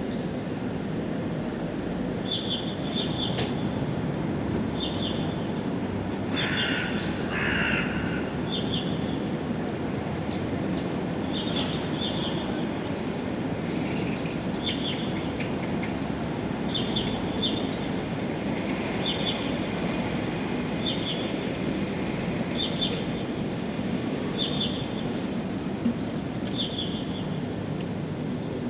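A songbird repeating a short, high call of a few quick notes stepping downward, about every one to two seconds. Underneath is a steady low rushing background noise.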